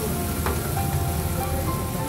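Chopped onion, chilli and curry leaves sizzling on a hot flat griddle (tawa), under background music, with a single sharp tap about half a second in.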